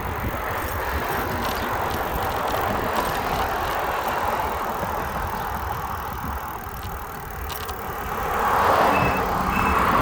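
Steady rushing noise of riding a bicycle along a road, wind and road noise, swelling louder about eight seconds in.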